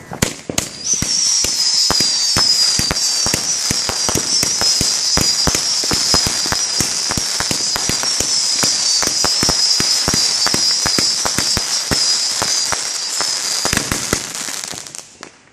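Fireworks going off: a long, high, wavering whistle over dense rapid crackling. It starts about a second in and dies away near the end.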